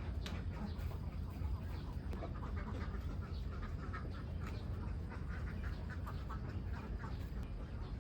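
A flock of ducks quacking, many short calls overlapping continuously, over a steady low rumble.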